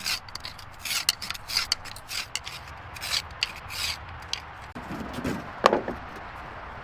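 Quick rasping strokes, roughly two or three a second, like hand sanding or scraping on a surface. Near the end comes one louder, lower-pitched scrape.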